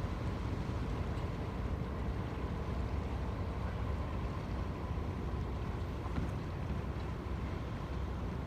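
Small harbour ferry's diesel engine running steadily: a low, even drone with a faint hum above it.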